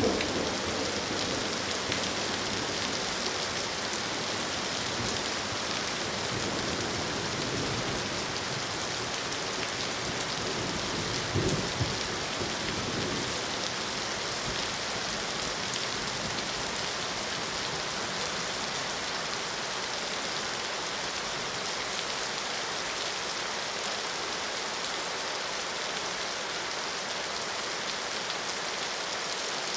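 Steady rain falling and pattering on surfaces, with a brief low rumble a little before halfway through.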